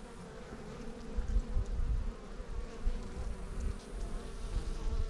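Honeybees buzzing steadily around an open hive during a frame inspection, with irregular low rumbling on the microphone.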